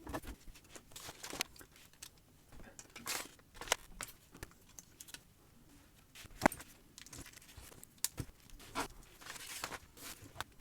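Hard-plastic Lego-compatible building bricks being handled and pressed together: scattered sharp clicks and small knocks, the sharpest about two-thirds of the way through, with a few brief bursts of rustling.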